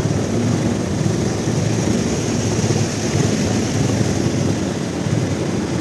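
Motorcycle engine running steadily, under a constant hiss.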